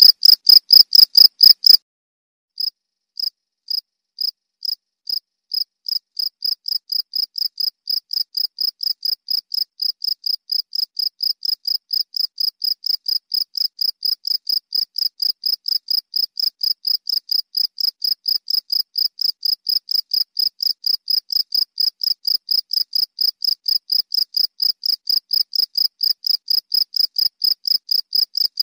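Cricket chirping in a steady, even rhythm of about three high chirps a second. About two seconds in, a louder chirping stops abruptly, and after a brief gap a quieter cricket takes over and holds the same steady beat.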